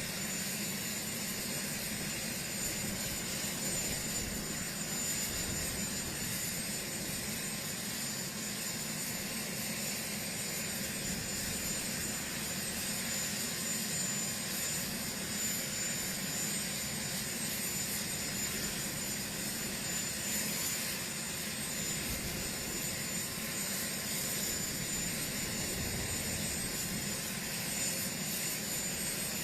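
Large helicopter running steadily on the ground, a steady high turbine whine over an even rushing noise of engines and rotors.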